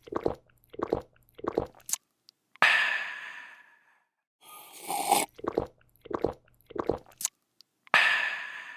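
A person drinking: three quick gulps, a short click, then a long breathy, refreshed 'aah' that fades. Then a slurp, three more gulps and a click, with another 'aah' starting near the end.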